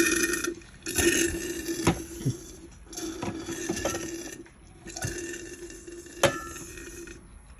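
Espresso machine water pump buzzing in stop-start spurts during a descale cycle, with a few sharp clicks and clinks, the loudest about six seconds in. The pump is weak, pumping only a little water from the tank, which the technician suspects is why the descale won't finish.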